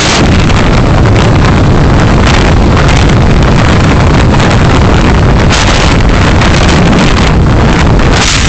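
Loud, steady rush of wind and road noise on a moving car's dashcam microphone, with no distinct engine note or separate events.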